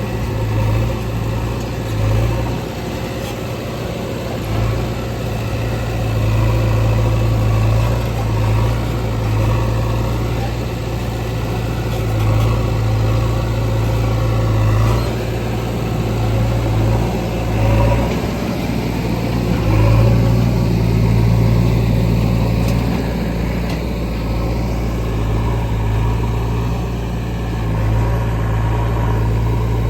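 Heavy diesel engine of a JCB 3DX backhoe loader running under varying load, with a deep hum that swells and eases every few seconds.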